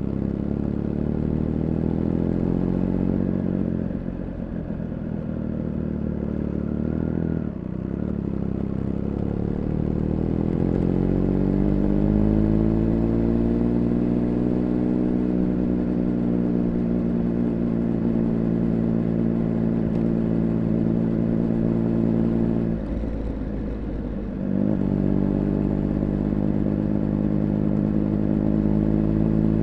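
Triumph Speed Triple 1200 RR's inline three-cylinder engine running under way, heard onboard. The engine note breaks off briefly a few times, climbs in pitch from about a third of the way in and holds high, then dips again near the end before picking back up.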